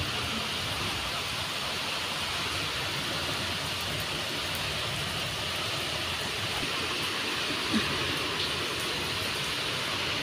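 Steady rain falling on paved ground.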